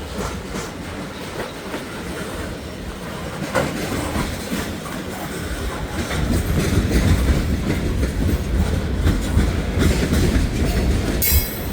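Long freight train of autorack cars rolling past: a steady rumble with the clickety-clack of wheels over rail joints, getting louder about halfway through. A brief hiss near the end.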